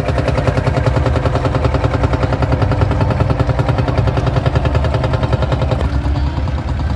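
1936 Caterpillar 22 crawler tractor's four-cylinder engine running steadily as it drives past, with a rapid, even exhaust beat. The sound thins slightly near the end.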